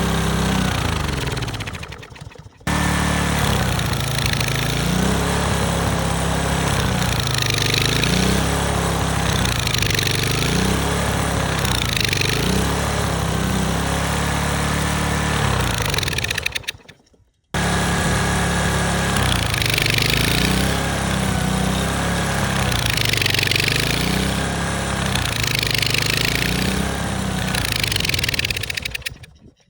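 Small single-cylinder pressure-washer engine running on a lawn mower deck, its speed dipping and picking up again every couple of seconds as Monster energy drink and drywall are fed into its intake. The sound breaks off sharply twice.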